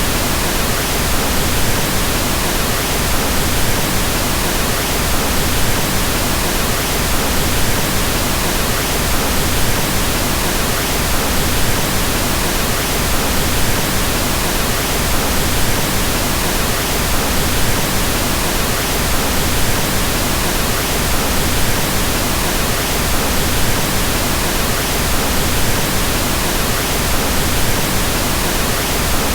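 Pink noise: a steady, even hiss across the whole range, with more weight in the low end than white noise, unchanging throughout.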